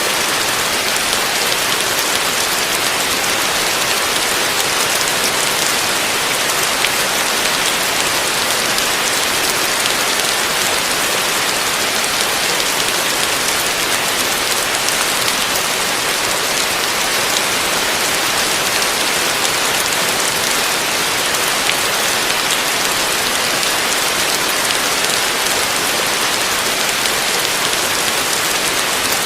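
Heavy rain falling steadily: an even hiss of countless drops with fine pattering ticks, with no thunder and no change in strength.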